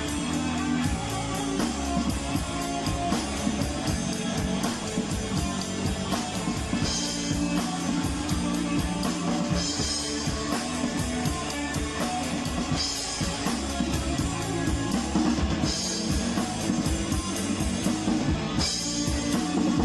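Rock band playing an instrumental passage: drum kit keeping a steady beat under electric guitar and bass.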